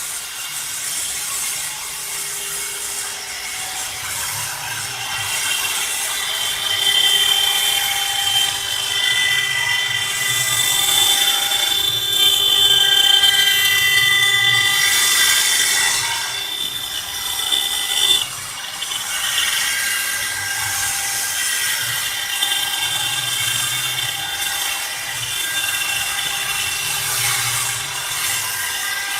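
CNC stone carving machine running, its spindle giving a steady high whine over a grinding hiss as the bit cuts stone; the sound dips briefly about two-thirds of the way through.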